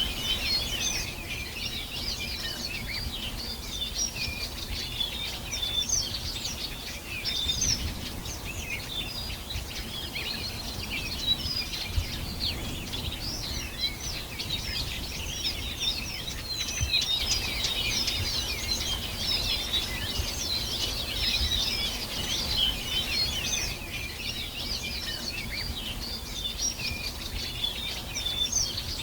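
A dense chorus of many small birds chirping and twittering continuously, short overlapping calls, over a low steady background rumble.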